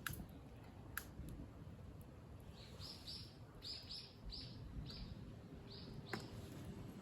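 A bird calling a quick run of about eight short, high notes, with a few sharp clicks, one near the start, one about a second in and one near the end.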